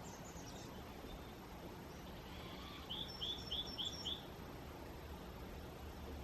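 A songbird singing: a few faint high notes at the start, then a quick run of five short, identical chirping notes about three a second, a little past halfway. Steady background noise runs underneath.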